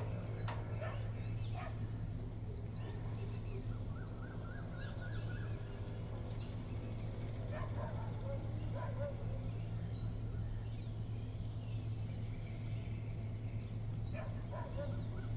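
Small birds chirping outdoors: short high rising calls every few seconds and a quick high trill near the start, over a steady low hum.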